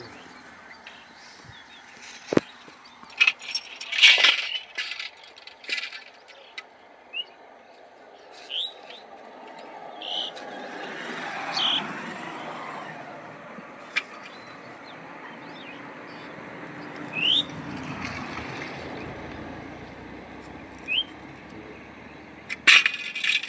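Chickens flapping their wings in scattered flurries, with short rising chirps and sharp knocks. A broad rumble swells in the middle and fades again.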